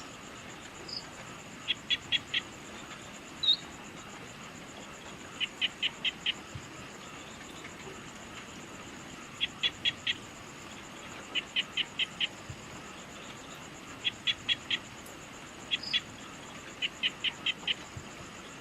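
Evening wildlife chorus: a steady high insect trill, over which a caller repeats quick runs of four or five sharp chirps about every two seconds, with a few single bird chirps between.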